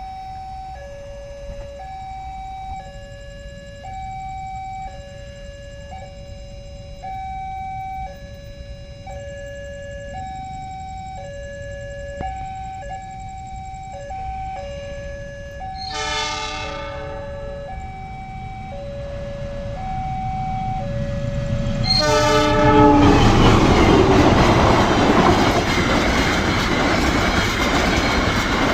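A railway level-crossing alarm sounds a steady alternating two-tone beep. About sixteen seconds in, a locomotive horn blows briefly, and again about six seconds later. Then the KA Argo Merbabu passenger train passes loudly, its wheels clattering over the rails.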